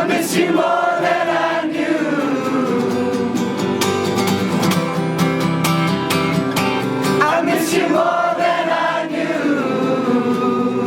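Live acoustic guitar with sustained wordless singing, the voices gliding up and down over held chords.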